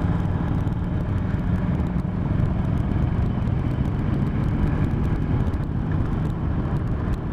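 Vehicle engine running at a steady cruising speed with road and wind noise, holding an even level throughout.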